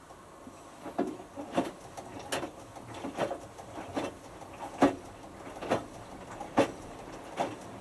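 Hotpoint Futura HF8B593 washing machine drum beginning to tumble about a second in. The small load and water drop and swish in a regular rhythm, about one beat every 0.8 s.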